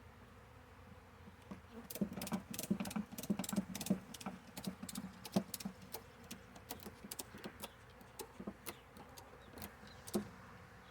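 Ratchet tie-down strap being cinched down over a hive box's lid: a quick, irregular run of metallic clicks and rattles that starts about two seconds in and stops shortly before the end.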